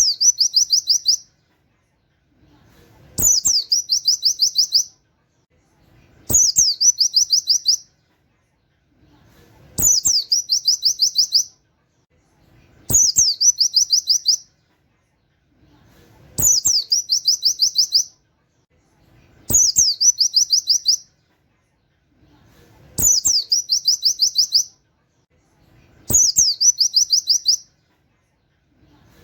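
Oriental white-eye (pleci) singing its rapid 'nembak' song: a high, sharp downslurred note followed by a fast run of about eight canary-like 'wit wit' notes. The same phrase repeats about every three seconds, nine times, with silence between.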